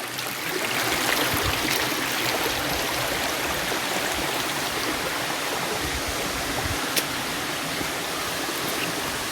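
Stream water running steadily, a continuous even rush of water. A single short click about seven seconds in.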